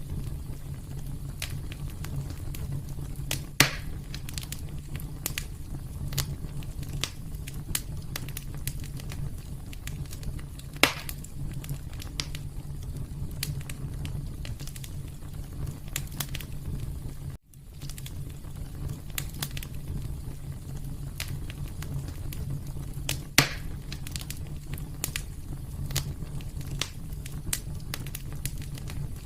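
Wood fire crackling in a fireplace over a steady low rumble, with frequent small crackles and three louder pops. The sound drops out for a moment about halfway through.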